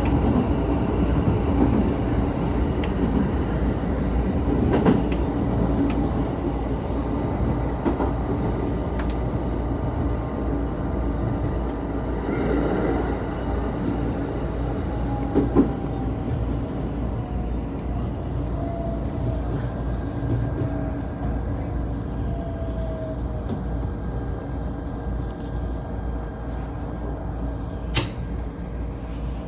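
Shinano Railway electric train running, heard from inside the car: a steady rumble with a few sharp clicks, and a faint whine falling slowly in pitch about halfway through.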